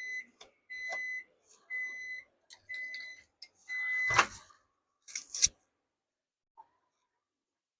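Microwave oven beeping at the end of its cycle: five steady high beeps about a second apart. Two sharp clunks follow, the loudest just after the last beep.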